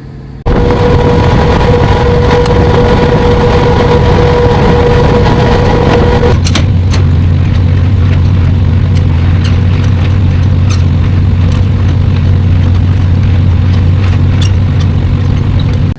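A semi-truck's engine and road noise, loud and steady. A steady whine sounds over it until about six seconds in, then a deep drone takes over.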